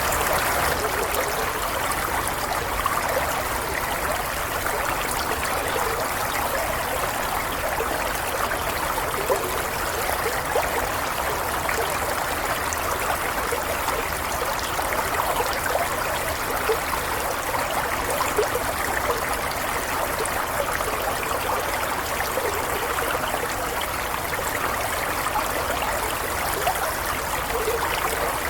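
A stream of water running and trickling, a steady rush with small splashes and gurgles.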